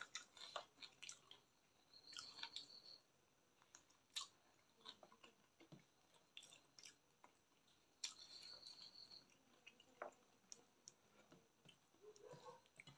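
Faint, close-up chewing of chicken and rice, with many small, irregular wet clicks from the mouth.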